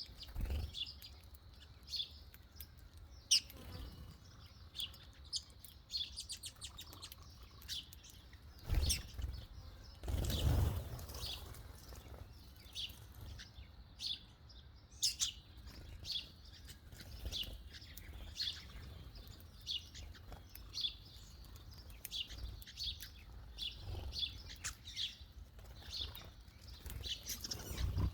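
Small birds chirping, many short high calls in quick succession, with a brief fluttering rustle about ten seconds in.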